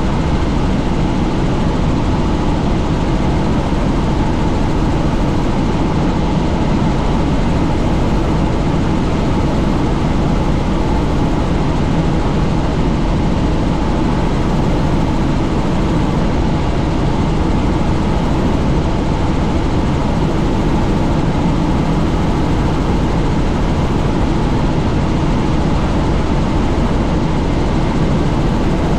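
Helicopter in flight with its doors off: a steady, loud mix of rotor and engine noise and wind rushing past the microphone.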